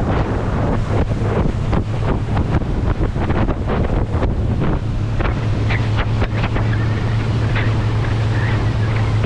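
A boat's engine running steadily under way, a low hum beneath wind buffeting the microphone and water rushing and slapping against the hull.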